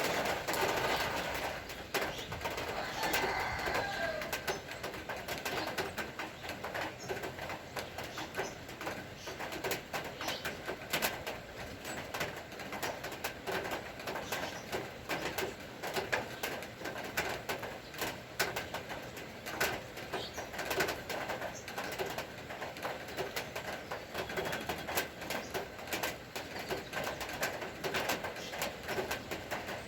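Rain falling, with many separate drops striking close by as sharp little ticks over a steady hiss, and birds calling now and then.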